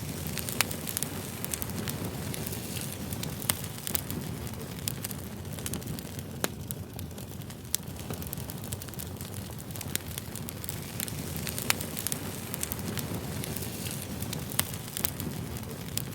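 Campfire crackling: a steady low rumble with irregular sharp pops and snaps of burning wood, a few standing out louder than the rest.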